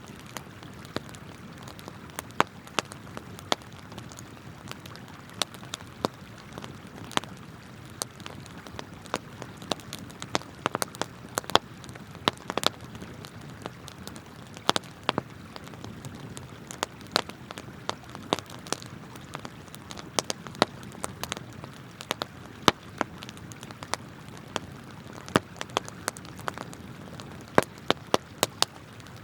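Wood campfire crackling, with frequent sharp, irregular pops and snaps over the steady rush of a flowing river.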